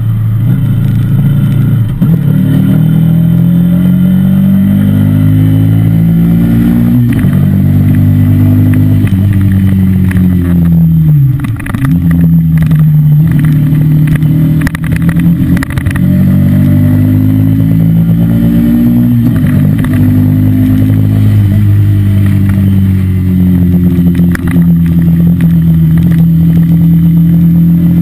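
Yamaha Fazer 150's single-cylinder four-stroke engine through its stock exhaust. It is revved up and back down several times: the pitch climbs, drops sharply, and holds steady for a few seconds in between.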